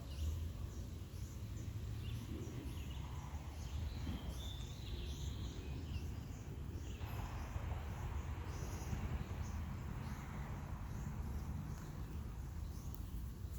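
Birds chirping outdoors in many short, high, repeated calls over a steady low rumble. A broad rush of noise swells about halfway through and lasts a few seconds.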